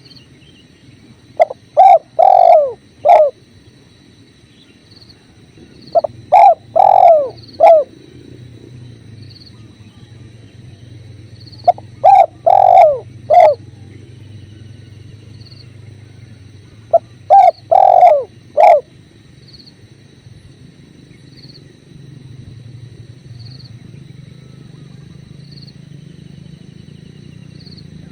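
Spotted dove cooing: four phrases of three or four low, falling coos, one about every five seconds, with a steady low rush of river water underneath.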